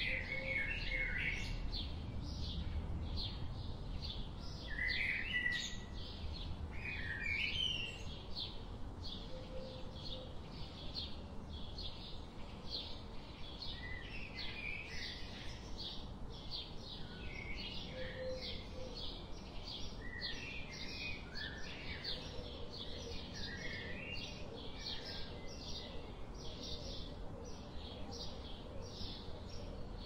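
Songbirds chirping and singing: a steady run of short, high chirps, about two a second, with lower warbling phrases in between, over a low, steady background hiss.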